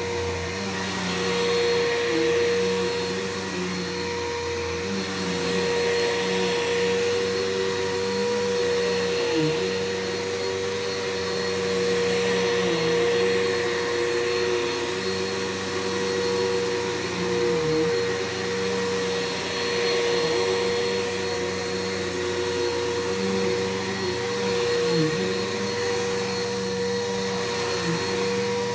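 Bissell PowerForce 6583-F bagless upright vacuum cleaner running continuously with a steady motor whine. The level rises and falls gently, and the pitch dips briefly now and then.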